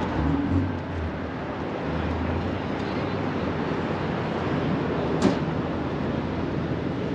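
Car engine running steadily amid a car-meet crowd, with one sharp click about five seconds in.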